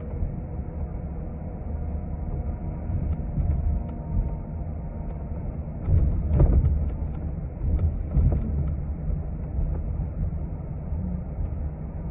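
Cabin noise of a city transit bus in motion: a steady engine and road rumble with a faint whine, and jolts with rattling about halfway through and again a couple of seconds later.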